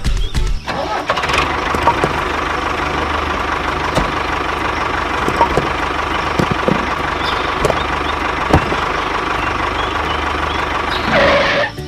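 A small motor running steadily with a constant whine, starting about a second in and stopping near the end, with a few light clicks over it.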